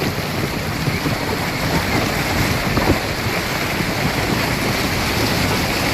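Storm: heavy rain and wind, with wind rumbling on the microphone.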